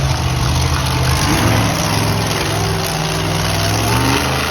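Monster truck engine running loud, its pitch rising as it revs about a second and a half in and again near the end.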